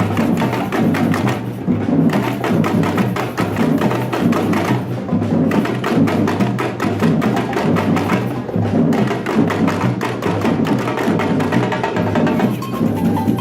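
Batucada samba percussion group playing a fast, steady rhythm: deep bass drums pulsing under rapid, sharp strokes of higher-pitched percussion.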